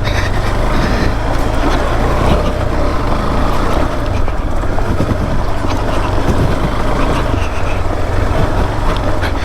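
KTM 390 Adventure's single-cylinder engine running steadily as the motorcycle is ridden along a dirt trail, mixed with a rushing noise.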